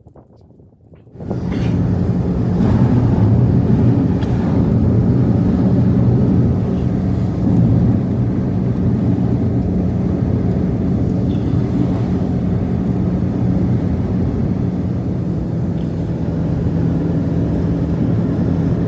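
An engine running steadily at a constant pitch, cutting in abruptly about a second in.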